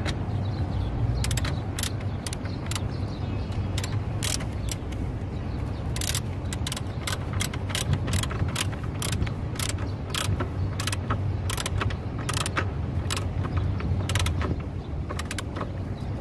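Quick, irregular metallic clicks from hand-tool work on a car battery's fittings as the battery is seated, over a steady low hum.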